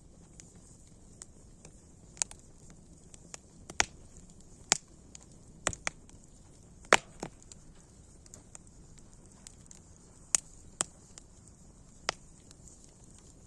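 Wood fire crackling: irregular sharp pops and snaps over a faint low hiss, the loudest pop about seven seconds in.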